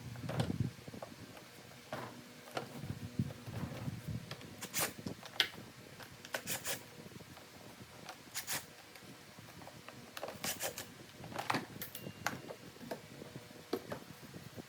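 Irregular clicks, taps and short scrapes of parts and tools being handled during work on a car's HVAC assembly.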